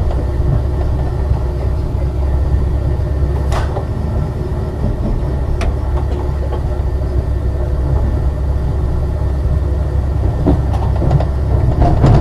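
Ex-Liverpool Corporation tram 869 running on the rails with a steady low rumble. Two sharp clicks come about three and a half and five and a half seconds in.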